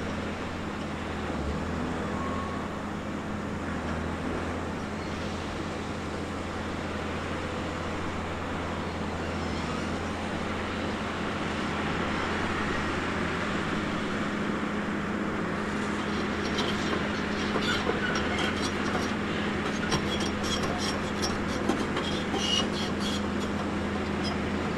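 Diesel engine of a heavy tracked construction machine running steadily. From about two-thirds of the way in, repeated metallic clanking and rattling joins it.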